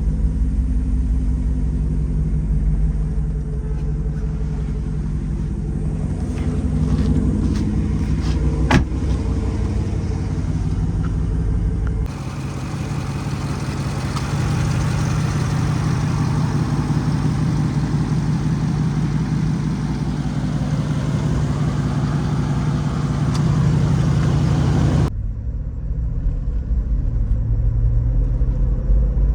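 A 2022 Jeep 392's 6.4-litre HEMI V8 running through a Borla Type S exhaust, a steady deep exhaust note. The sound changes abruptly about 12 and 25 seconds in, with more hiss in the middle stretch.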